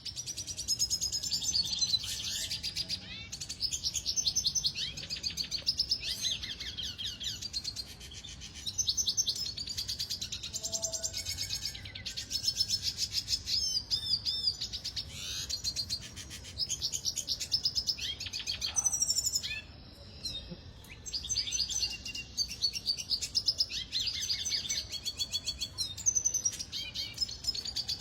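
Red siskin singing: a fast, twittering song of high trills and chirps in phrases with short pauses, easing off briefly about two-thirds of the way through.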